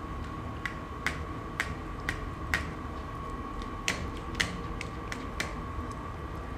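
Vintage Castello Vetto racing bicycle clicking while being ridden: sharp clicks come roughly twice a second, over a steady low rumble.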